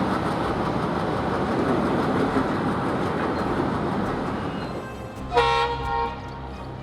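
Train running by with a steady rumble that fades, then a short blast of its horn about five seconds in.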